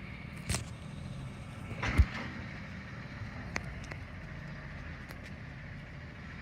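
CNG garbage truck engine idling with a steady low rumble, broken by a few sharp knocks, the loudest about two seconds in.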